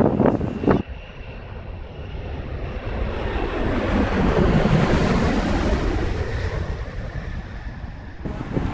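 An aircraft passing by: its engine noise swells to a peak around the middle with a slow falling pitch, then fades. Wind buffets the microphone in the first second.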